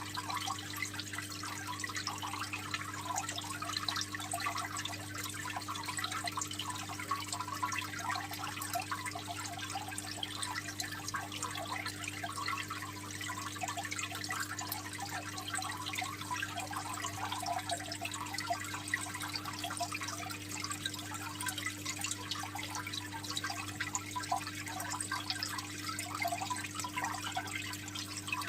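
Aquarium water trickling and splashing steadily, a continuous patter of small drips, over a constant low hum.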